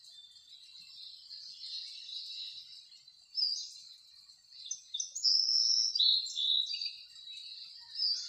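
Birds chirping: high, varied chirps and short whistled notes, busiest and loudest past the middle.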